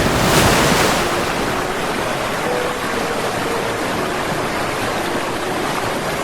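Water rushing steadily from a breached model sand dam, with a louder surge in the first second.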